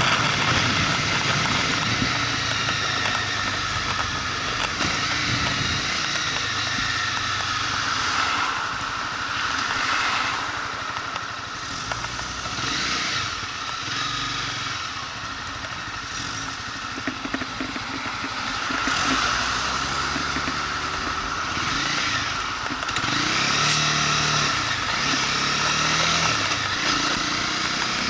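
Motorcycle engine running under way with wind noise over it. The engine pitch rises and falls as the bike speeds up and slows, with stepped climbs near the end.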